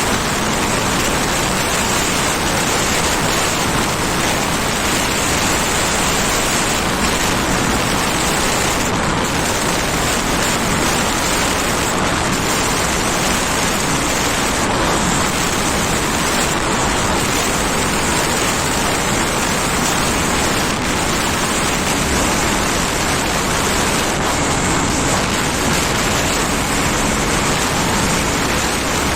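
Steady, loud wind rush on the microphone of a moving scooter, with the road and vehicle noise of the ride underneath.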